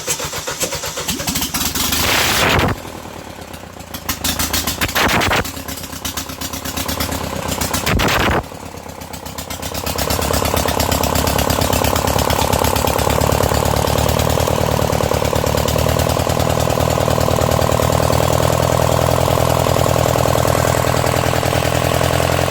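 Perkins 400-series four-cylinder diesel engine on a generator being started: uneven cranking and firing with three short loud bursts over the first several seconds, then it settles into a steady run from about ten seconds in.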